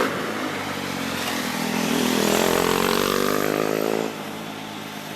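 Formula Hybrid race car driving by under power, its engine note swelling and bending in pitch, then dropping away sharply about four seconds in.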